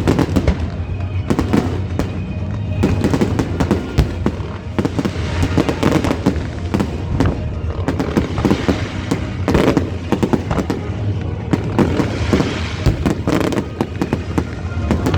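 Large fireworks display: a dense run of bangs and crackling from shells bursting, with music playing underneath.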